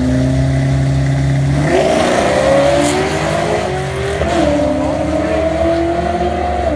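Drag-race car engines pulling hard down the strip: the engine note holds steady, then climbs from about two seconds in, drops briefly about four seconds in as if on a gear change, and climbs again.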